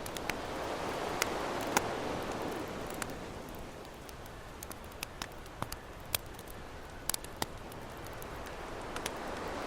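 Campfire crackling with scattered sharp pops over ocean waves washing in and drawing back, the surf swelling in the first few seconds, easing off in the middle and building again near the end.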